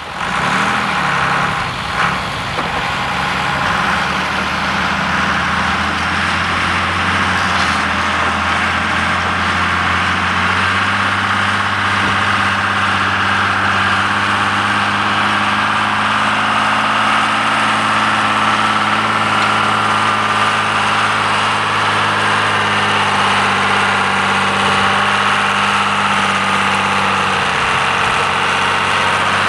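John Deere 3350 tractor's diesel engine running steadily under ploughing load. Its pitch wavers briefly in the first couple of seconds, then holds even.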